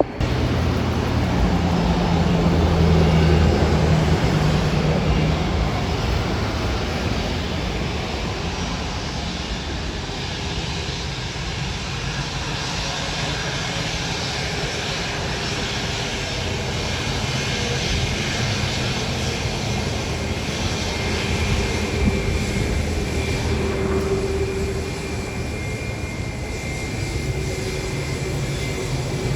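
Jet airliner engines running loud and steady, with a deep rumble that is strongest in the first few seconds. A faint high whine sits over the engine noise later on.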